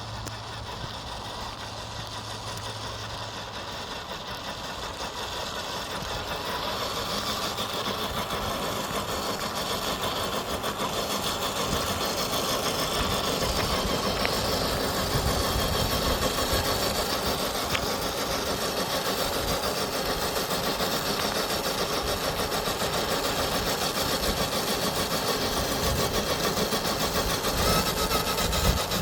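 Electric motor and gearbox of an FMS FJ40 RC crawler truck whirring as it drives, growing louder about six seconds in and then running steadily.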